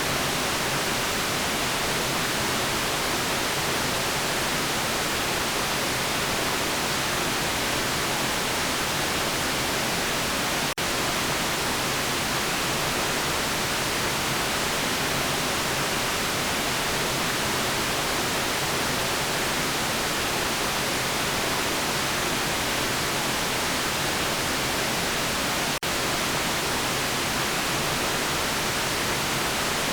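Steady white noise: an even, bright hiss with most of its energy in the high frequencies. It dips out very briefly twice, about 11 seconds and 26 seconds in.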